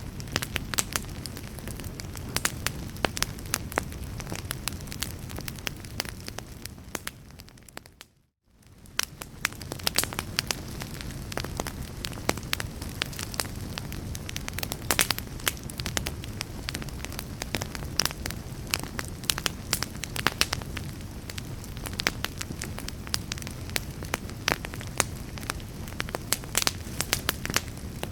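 Wood fire crackling, many sharp pops over a low steady rumble. About eight seconds in the sound fades out to a moment of silence and fades back in.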